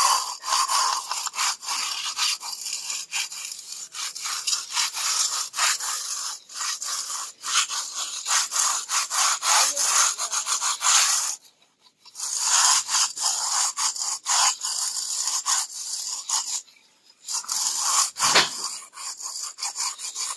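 Plastering trowels scraping and rubbing over fresh cement render on a wall in quick repeated strokes, broken by two short pauses, as the render is pressed and smoothed.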